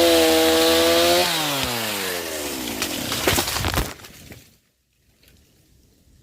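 Chainsaw running at high revs, then about a second in the throttle is let off and the engine pitch falls steadily away. A few sharp cracks come near the end of the wind-down before the sound cuts off and goes almost quiet.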